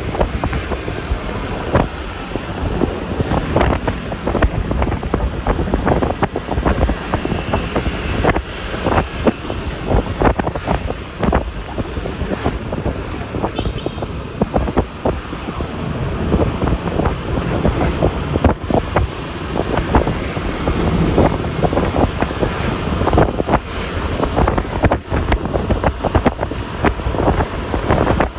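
Wind buffeting an iPhone microphone while riding a Yamaha Lexi LX 155 scooter, with the single-cylinder engine and tyre and road noise running underneath. The buffeting comes in many uneven gusts.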